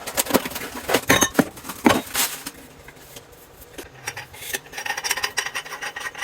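Small faucet fitting parts clinking and rattling as they are handled, with a quick run of sharp clicks in the first couple of seconds and lighter rattling later.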